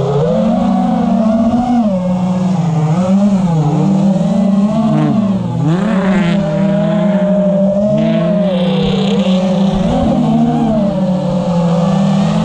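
A 5-inch FPV quadcopter's four brushless motors and tri-blade props whining, the pitch rising and falling continuously with throttle, with a brief harsher surge about halfway through.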